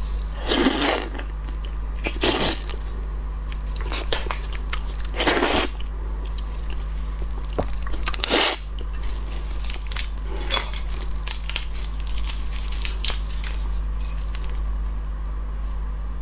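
Close-miked cracking and crunching of shellfish shells during eating: a few loud sharp crunches among many smaller clicks and snaps, over a steady low hum.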